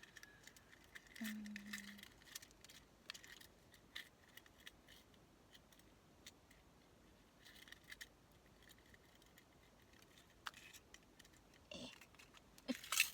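Quiet handling of paper-crafting materials on a desk: scattered light clicks and scratches, louder clicks near the end.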